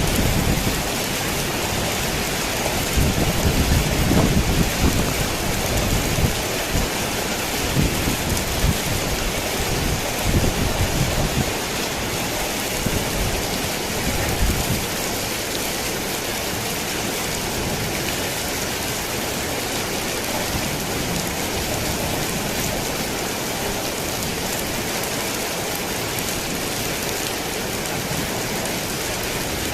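Rain falling steadily on a tin roof, with low thunder rolling under it through the first half and dying away about halfway through, leaving only the rain.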